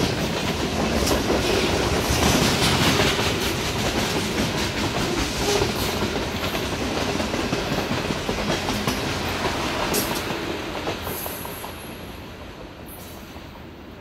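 Boxcars of a CSX freight train rolling past at close range, wheels clattering over the rail joints. The sound fades over the last few seconds as the end of the train passes and draws away.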